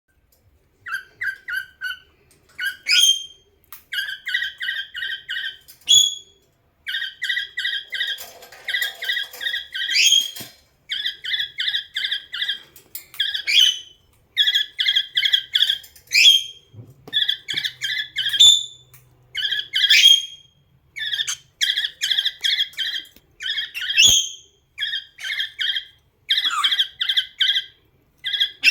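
Pet cockatiel singing: runs of quick, rapidly repeated whistled notes, broken every couple of seconds by a sharp upward-sliding whistle.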